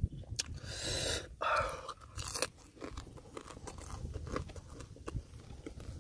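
A man chewing food close to the microphone: wet clicks and crunches throughout, with a few longer, rougher crunching sounds in the first two and a half seconds.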